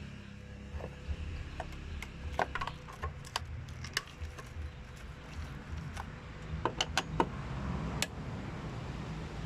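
Scattered sharp metallic clinks and taps of tools and parts being handled, coming in two clusters, over a steady low hum.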